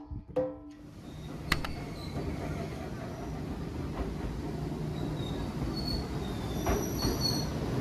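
Enoden (Enoshima Electric Railway) train running on the rails, its noise building over the first second or two, with a sharp click about a second and a half in and thin high wheel squeal near the end.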